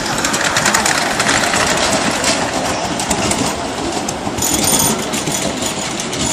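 Miniature railway train running along the track, its wheels clattering and clicking over the rails.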